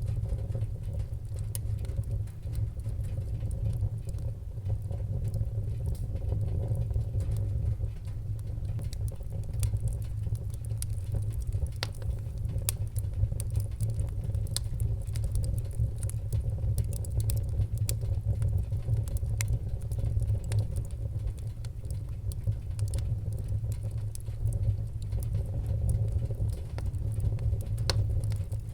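Wood fire crackling in a fireplace: a steady low rumble of burning with frequent small, sharp pops and crackles at irregular intervals.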